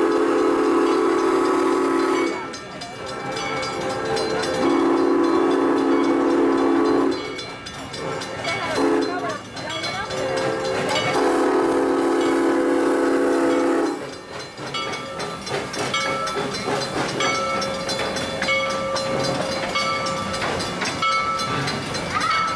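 Crown steam locomotive's whistle sounding two long blasts, one short and one long, the standard grade-crossing signal, followed by the quieter sound of the train running past.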